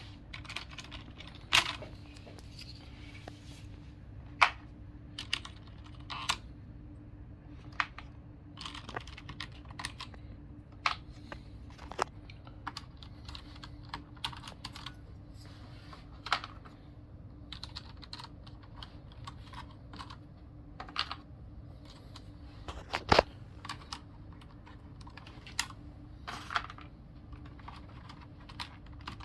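Logitech G710+ mechanical keyboard giving scattered, irregular plastic key clicks and clacks, a few sharper than the rest, over a faint steady hum.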